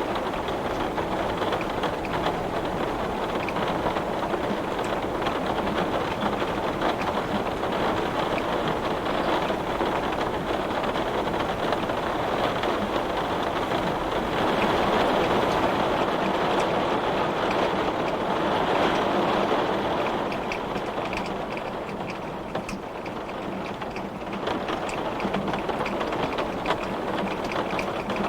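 Heavy rain falling on window glass: a dense, steady hiss of drops, easing slightly for a few seconds about two-thirds of the way through, then picking up again, with separate drop ticks standing out near the end.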